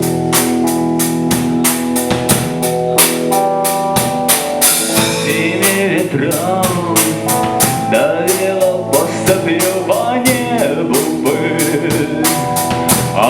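Live rock band playing a passage between sung lines. A drum kit keeps a steady beat under sustained chords, and a wavering melodic lead line comes in about five seconds in.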